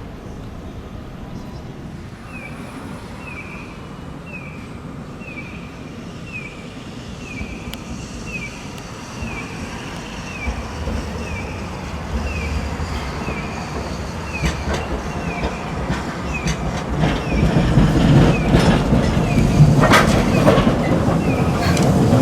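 Hiroden street tram approaching and running past, its low rumble building to a loud clatter of wheels on the rail joints near the end. A short electronic chirp repeats steadily about every three-quarters of a second behind it.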